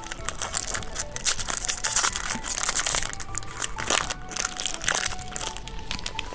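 Plastic snack wrappers crinkling and a crisp candy snack crunching close to the microphone, with many quick crackles and louder crunches, over soft background music.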